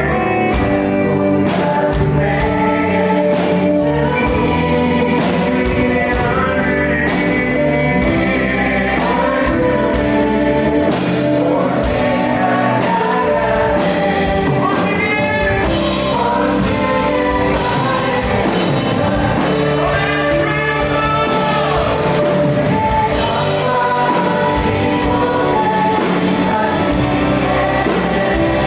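Live contemporary worship band playing: several singers in unison over keys, electric guitars, bass guitar and a steady drum beat.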